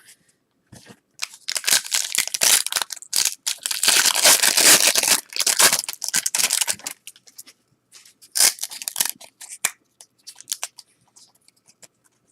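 Wrapper of a 1992-93 Fleer Ultra basketball card pack being torn open and crinkled in a long stretch of noisy crackling, with a shorter burst a few seconds later. Light clicks and rustles follow near the end as the cards are handled.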